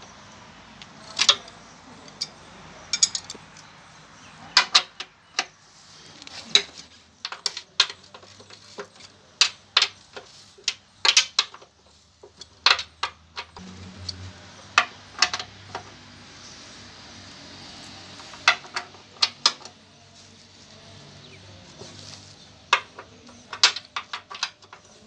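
Hand tools and metal parts clinking and clanking irregularly, a few dozen sharp metallic strikes, during work on a car's front suspension and steering.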